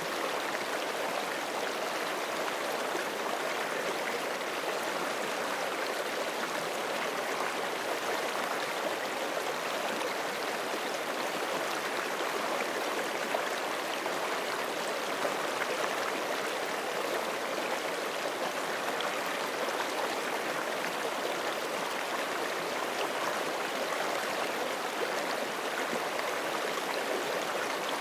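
Forest creek flowing over stones: a steady, even rushing and burbling of water.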